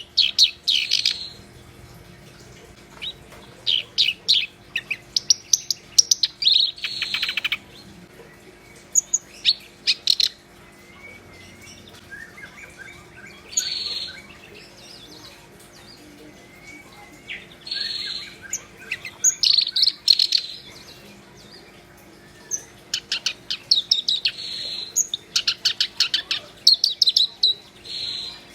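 Black-browed reed warbler singing vigorously. Its song comes in repeated bursts of quick, sharp notes, each burst a second or two long, with short pauses between them.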